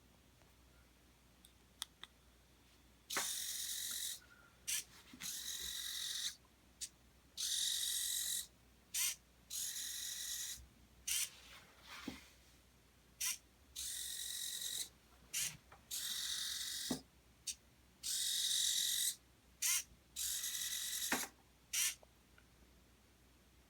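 Small geared DC motors of a two-wheel robot car whirring in repeated short bursts, starting and stopping about a dozen times, each burst lasting roughly half a second to a second and a half.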